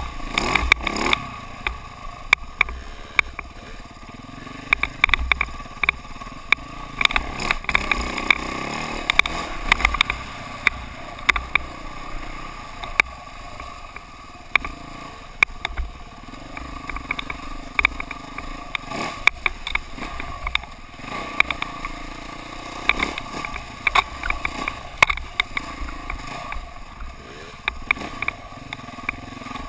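KTM dirt bike engine running during a ride, with many sharp knocks and rattles scattered irregularly over it.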